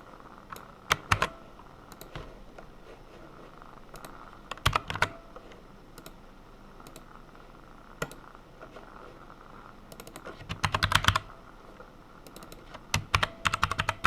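Typing on a computer keyboard in short bursts of keystrokes with pauses between them, the longest fast run about ten seconds in. A faint steady hum sits underneath.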